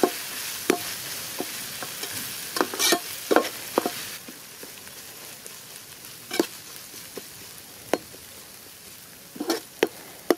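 Chopped green chillies and onions frying in oil in a metal pot, with a steady sizzle that is strongest for the first four seconds and then eases. A metal ladle scrapes and clinks against the pot as they are stirred, in short knocks every second or two.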